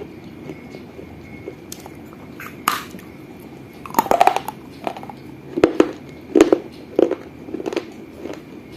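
A small fired-clay gullak (piggy bank) being bitten into and chewed: a sharp crack a few seconds in, a cluster of cracking about four seconds in, then crunching chews roughly twice a second.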